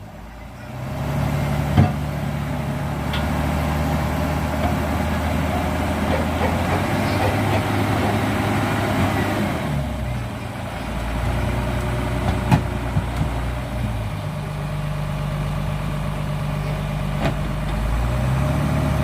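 Hino dump truck's diesel engine running under the hydraulic hoist as the loaded bed is raised, its note stepping up and down several times, with a few sharp knocks.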